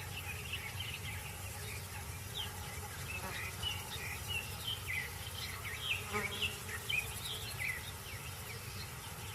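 Wild outdoor ambience of buzzing insects with many short chirping calls, busiest in the middle seconds, over a steady low background rumble.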